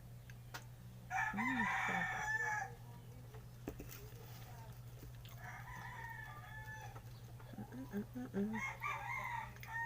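A rooster crowing: a long, loud crow about a second in, then a fainter crow and another near the end. A steady low hum runs underneath.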